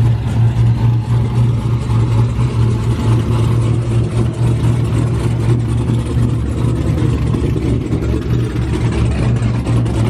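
Car engine running with a steady, deep rumble that holds at one pitch, without revving up or down.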